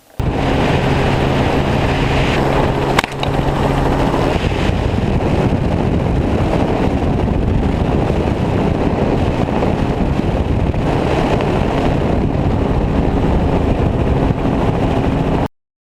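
Helicopter in flight: steady engine and rotor noise with a low, even hum. There is a single sharp click about three seconds in, and the sound cuts off suddenly near the end.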